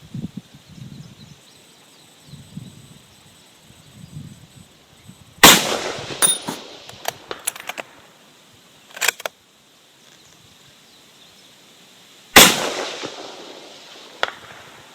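Two rifle shots from a .260 bolt-action hunting rifle, about seven seconds apart, each followed by a fading echo. After the first shot come several sharp clicks, with the bolt being worked, and wind buffets the microphone in the first few seconds.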